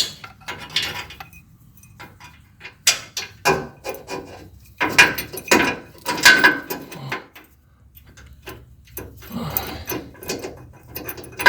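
Hand ratchet wrench clicking in irregular bursts as a nut is run onto a bolt, with a few metallic knocks.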